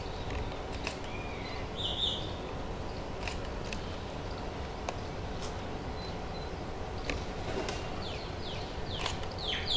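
Outdoor background with a steady low rumble and a few faint clicks; a bird chirps briefly about two seconds in, and near the end a bird starts a rapid run of short, falling chirps.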